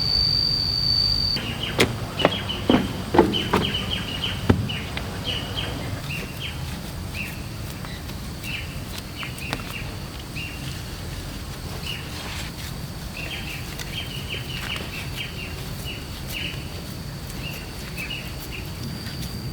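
Small birds chirping in short, repeated calls over a low outdoor rumble. There are a few sharp knocks in the first few seconds, and a steady high tone cuts off about a second in and returns near the end.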